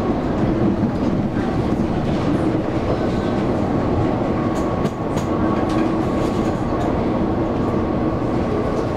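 Running sound of a Taiwan Railways local train heard from inside the carriage: a steady rumble of wheels on rail with a faint steady tone, and a few sharp clicks about halfway through.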